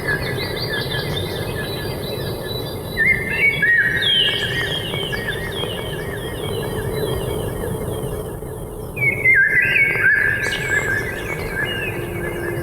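Small songbirds chirping in quick runs of notes, loudest about three seconds in and again near ten seconds. Under them runs a soft, steady low tone that dips slightly near the end, over a low rushing background.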